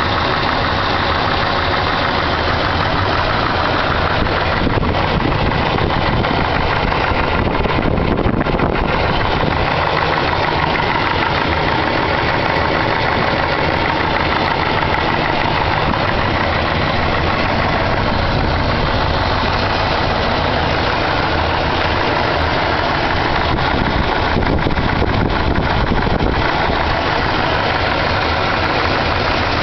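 Chevrolet 454 big-block V8 idling steadily with a knock in it that the owner cannot identify.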